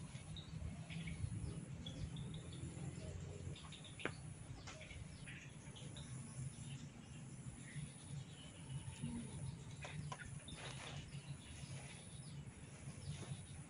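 Birds chirping in the background, with a few short sharp clicks about four seconds in and around ten seconds in, over a steady low hum.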